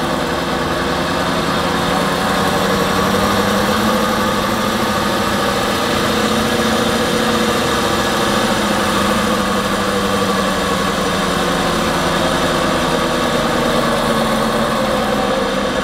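BMW 530d xDrive with its 3-litre six-cylinder diesel running in gear on a lift, the wheels spinning freely, giving a steady hum from the drivetrain with several held tones. The mechanic takes the noise for a worn rear wheel bearing rather than the differential.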